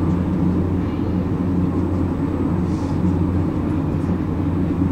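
Commuter train running, heard inside the passenger car: a steady low rumble with a constant hum.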